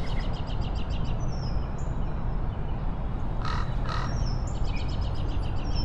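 Birds calling: rapid high chirping trills, a few short falling whistled notes, and two short harsh calls in quick succession about three and a half seconds in, over a steady low background hiss.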